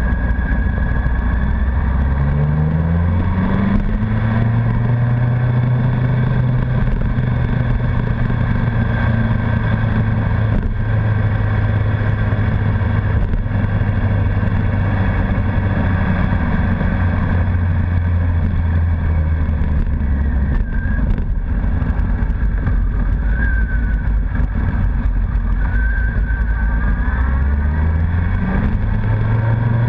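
Honda CBR1100XX Super Blackbird's inline-four engine heard from on the bike while riding. Its pitch rises about two to four seconds in, holds steady, eases off around twenty seconds and rises again near the end, over wind and road noise.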